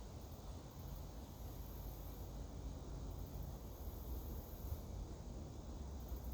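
Outdoor woodland ambience: a thin, very high-pitched buzz that comes and goes in stretches of about a second, over a low steady rumble.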